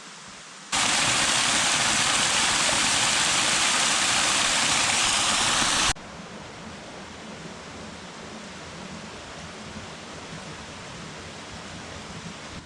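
Cascading waterfall: a loud, steady rush of falling water that starts and stops abruptly, with a much fainter rush of water for the second half.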